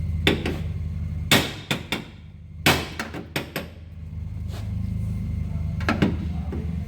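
Hammer striking the steel sheet-metal rear panel of a Nissan R31 Skyline to knock out a crash dent: about ten irregular blows with a metallic ring, the two hardest about a second and a half apart near the middle. A steady low hum runs under the blows.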